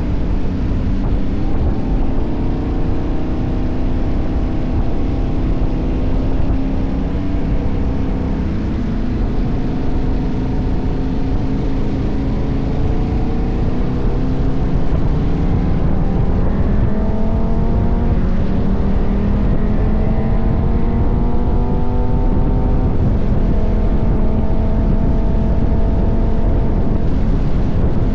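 KTM 1190 Adventure's V-twin engine running under way, its pitch rising several times as the bike accelerates, over a steady low rumble of wind and road noise.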